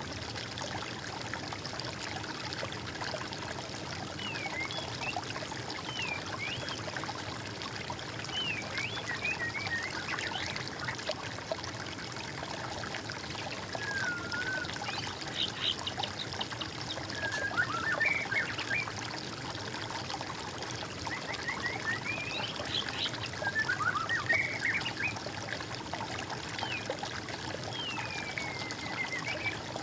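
Water trickling and splashing steadily, with songbirds singing short, whistled, sliding phrases now and then over it.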